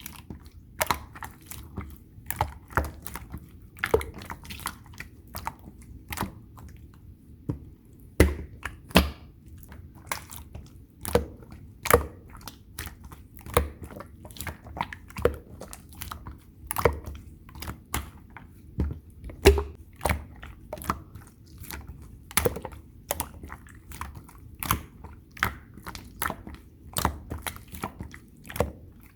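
Slime being squeezed and pressed by hand, giving irregular sharp sticky clicks and pops, about one or two a second, over a low steady hum.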